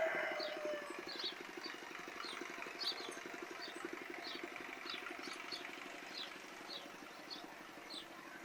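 Sparrows chirping: short, high chirps about twice a second over the steady hum of an engine running in the distance. At the very start, a louder animal call falls in pitch and fades out within the first second.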